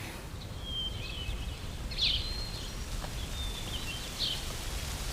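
Small birds chirping on and off, short high chirps and thin whistled notes every second or so, over a low steady background rumble.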